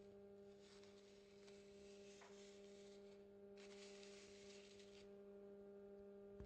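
Near silence: a faint steady electrical hum, with two soft stretches of hiss.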